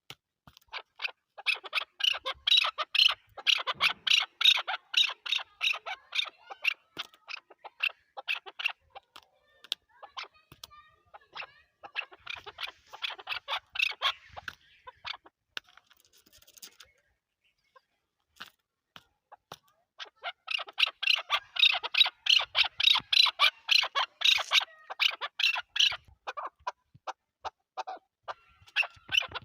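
Chukar partridge calling: fast runs of repeated clucking notes in bouts, with a pause of a few seconds in the middle.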